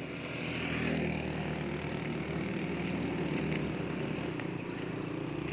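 A motor vehicle's engine running close by over steady street noise, swelling about a second in and then holding.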